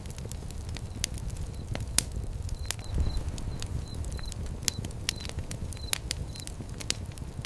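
Fire in a fire pit crackling, with irregular sharp pops over a steady low rumble of the flames. The loudest pop comes about two seconds in.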